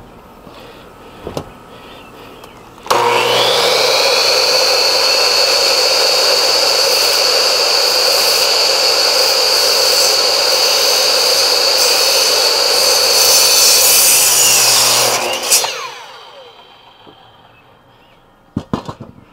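Electric power saw spinning up about three seconds in and cutting wood steadily for about twelve seconds, then winding down with falling pitch; a few sharp knocks near the end.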